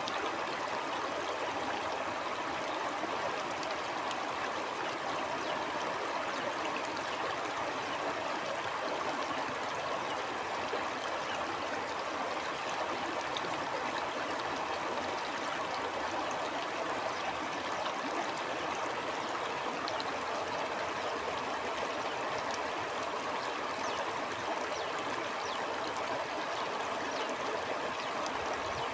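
Stream flowing steadily: an even rush of water with faint scattered ticks through it.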